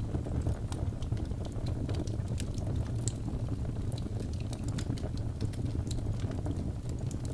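Wood fire crackling in a fireplace: many irregular sharp snaps and pops over a steady low noise from the burning logs.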